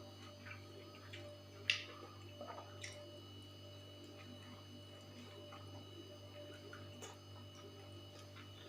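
Faint eating sounds: a person chewing with soft mouth noises and a few small sharp clicks, the clearest about two seconds in. A steady low electrical hum lies underneath.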